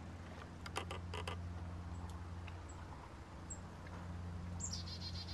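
A few sharp clicks about a second in, then a small bird's rapid high trill near the end, over a steady low hum.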